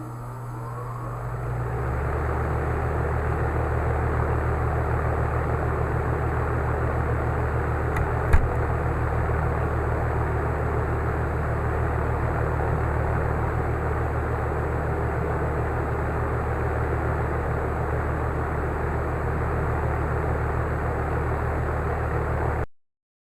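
A 2010 Tempstar heat pump's outdoor unit running: a steady low compressor hum with fan airflow, which builds up over the first couple of seconds. There is a single short click about 8 seconds in.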